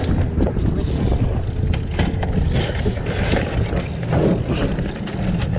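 Sailboat sheet winch ratcheting in quick clicks as the sheet is cranked in with a winch handle during a tack, over wind rumble on the microphone.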